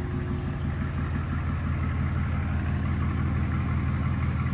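Mercedes-AMG C63's 4.0-litre twin-turbo V8 idling steadily, with a deep, even note.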